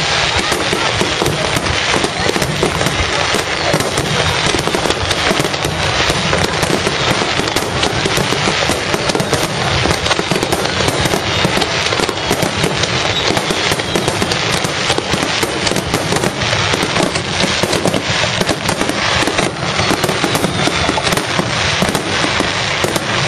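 Fireworks display: a dense, unbroken run of aerial shell bursts and crackling, loud throughout.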